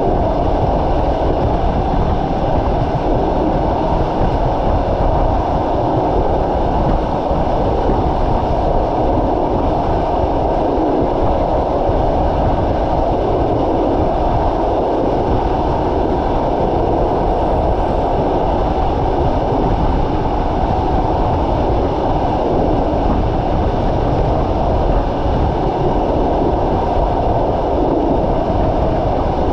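Passenger train running at speed, heard from inside a coach by the window: a steady, unbroken rolling rumble of wheels on the rails.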